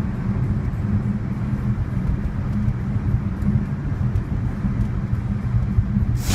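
Steady low road and tyre rumble with a low hum from a BMW i3 electric car being driven. At the very end a sudden loud blast cuts in.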